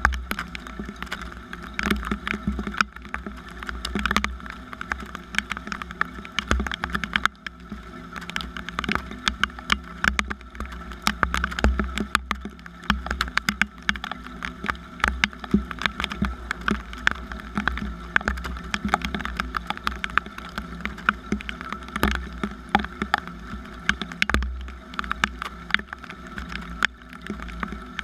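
Rain falling: a dense, irregular run of drops ticking on hard surfaces, over a low steady rumble and hum.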